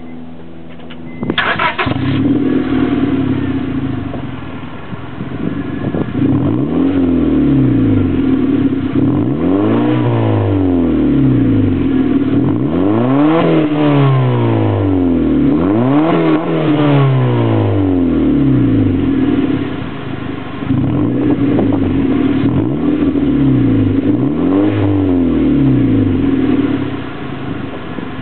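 2005 Honda Civic LX's 1.7-litre four-cylinder engine heard through its exhaust, idling and then revved several times, each rev rising quickly and falling back to idle.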